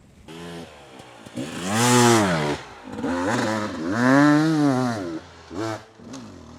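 Dirt bike engine revving hard under load on a steep hill climb, in two long rising-and-falling swells about two and four seconds in, then shorter blips near the end.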